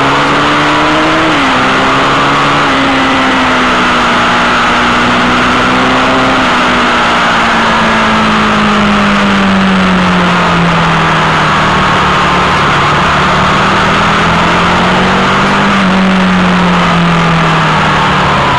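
Sport motorcycle engine running under way, heard from a camera mounted low on the bike, with heavy wind and road noise over it. The engine note climbs, drops sharply about a second in, then sinks slowly, with a brief rise near the end.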